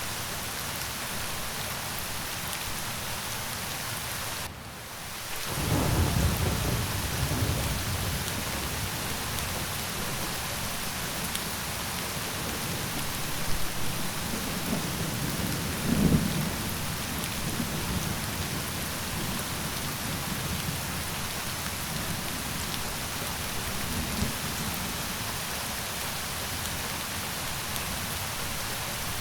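Steady rain falling, with low rolling thunder. The rain drops out for a moment about four seconds in, then a long roll of thunder comes in; another rumbles around the middle and a faint one later.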